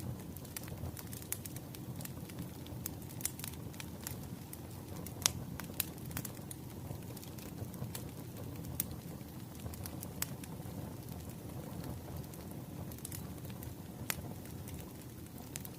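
Wood fire crackling: irregular sharp pops and snaps over a low, steady rumble of burning logs, with one louder snap about five seconds in.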